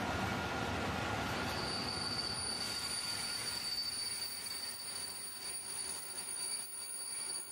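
Freight train of tank wagons rolling past, the wheels and running gear making a dense rumble that thins out partway through. About a second and a half in, a steady high-pitched wheel squeal sets in and holds.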